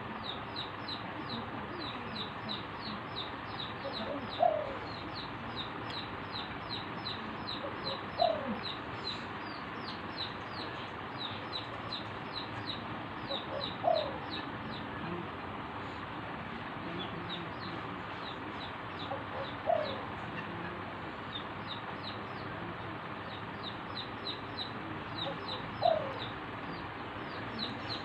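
Spotted dove cooing: a short phrase of a few notes about every six seconds, five times. A fast, steady series of high chirps runs underneath.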